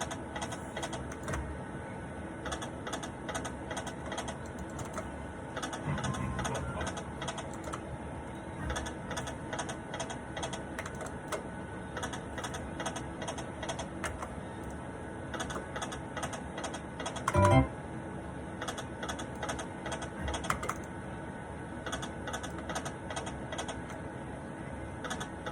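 Poker machine game sounds: rapid, irregular clicking ticks over faint steady electronic tones, with one short louder sound about 17 seconds in.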